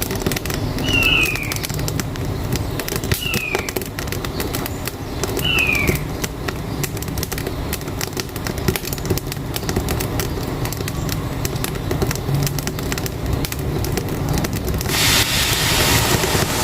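Wood fire crackling in a wood-burning stove, many sharp pops over a steady low engine rumble. A bird gives a short falling whistle about four times in the first six seconds, and about fifteen seconds in a loud hissing rush comes in.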